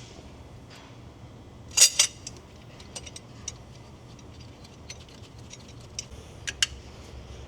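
Light metallic clicks and clinks of small engine parts and hand tools being handled, as a plate and grommet are set onto the valve cover, with two louder clacks about two seconds in and a pair of sharp clicks near the end.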